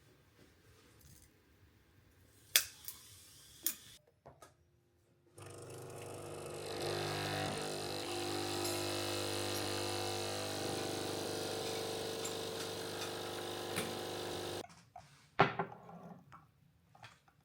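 A small electric motor runs steadily for about nine seconds with a hum and hiss, starting and stopping abruptly, with a few sharp clicks and knocks before and after it.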